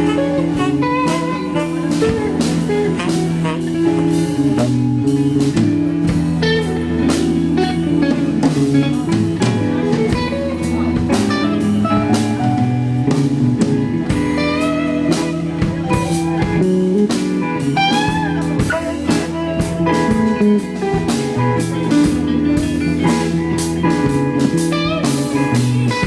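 Live rock band playing an instrumental jam: an electric lead guitar with bent, gliding notes over bass, rhythm guitar and drum kit.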